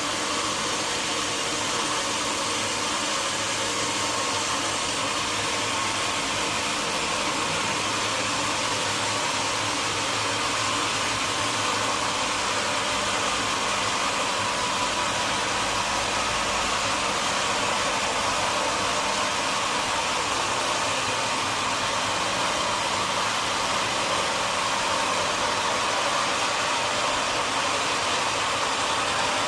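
Sawmill machinery running steadily: a continuous whirring hiss with no breaks.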